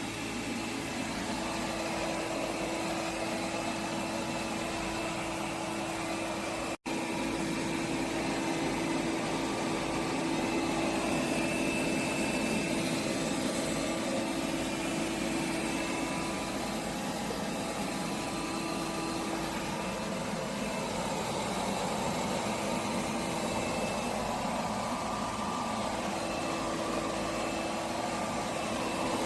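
Robot vacuum cleaner running with a steady motor hum and whirr. The sound cuts out for an instant about seven seconds in.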